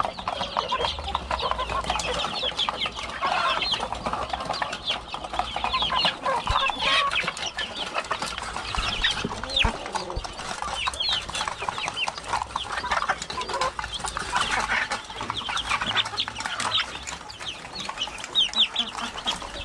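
A flock of kampung chickens clucking and calling, with many short calls overlapping throughout.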